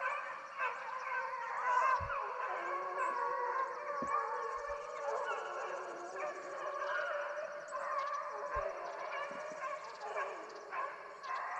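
A pack of deer-hunting hounds baying and howling, several dogs' voices overlapping without a break.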